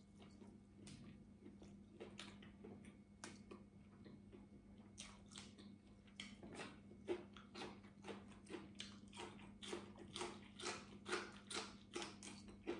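A person chewing food close to the microphone: faint mouth clicks, sparse at first, then settling into a steady rhythm of about two to three a second from about five seconds in.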